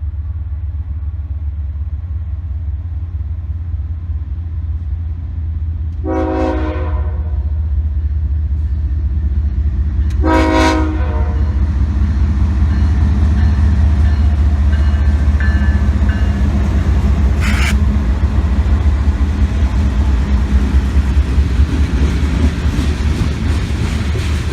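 Diesel locomotives of a Canadian Pacific train running with a heavy, steady low rumble that grows louder as it approaches, and the air horn sounds two blasts of about a second each, a few seconds apart, about a quarter and nearly halfway in.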